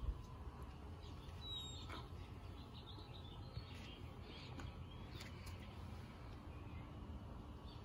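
Faint birds chirping in short, scattered calls over a steady low background rumble, with a few faint clicks.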